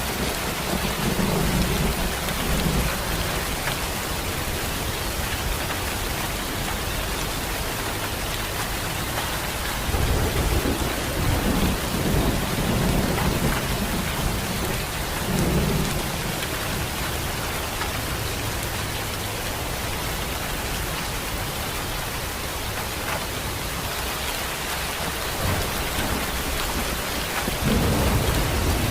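Steady rainfall, a continuous hiss of rain on surfaces. Low rumbling swells rise and fade three times: near the start, through the middle and near the end.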